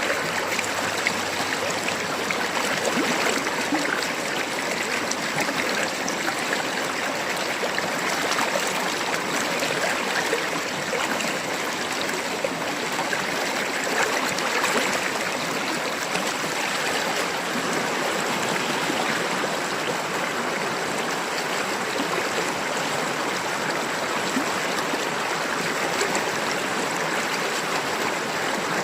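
A river's water babbling and rushing steadily over stones, a continuous even splashing flow.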